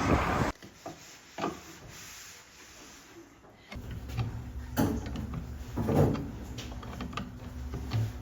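A few scattered knocks with rubbing and handling sounds, like wooden fittings being moved or touched, over a low steady hum.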